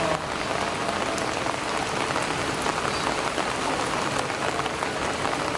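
Steady rain falling on broad lotus leaves: a continuous hiss of rainfall with many single drops ticking through it.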